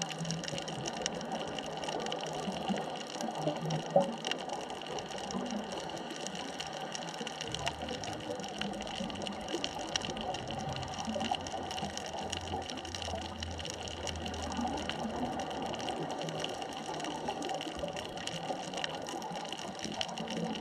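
Underwater ambience on a deep wreck: a steady crackling hiss full of small clicks over a faint steady whine, with one sharper click about four seconds in and a low hum that comes and goes in the middle.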